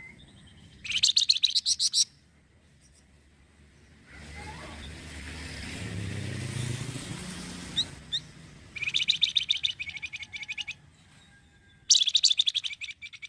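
Flamboyan songbird singing three bursts of fast, rapidly repeated high notes, each one to two seconds long. Between the first and second burst a low rumbling noise swells and fades.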